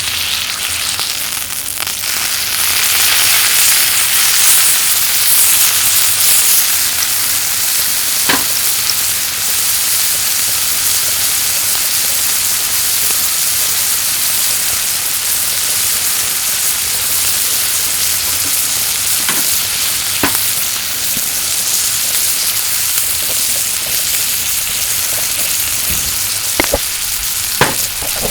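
Yakiniku meat sizzling as it cooks on top of a kerosene heater: a steady hiss that grows louder from about three to seven seconds in. A few sharp clicks or pops come through it, several of them near the end.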